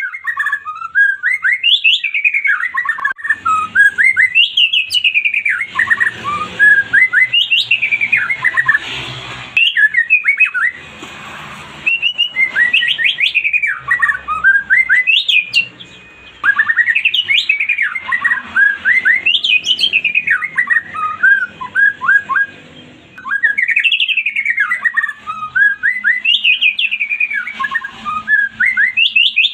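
White-rumped shama (murai batu) singing: loud phrases of rising and falling fluted whistles that break into quick chattering notes, repeated every few seconds with short pauses between.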